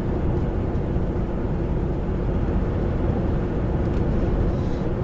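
Steady engine and road noise of a semi-truck heard from inside the cab while driving, an even low rumble with a faint steady hum.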